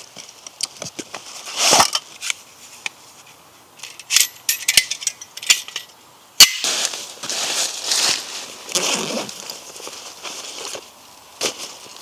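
Hands-on handling noises: scattered small snaps and clicks, a quick run of clinks with a faint ring about four seconds in, a sharp strike at about six and a half seconds, then rustling.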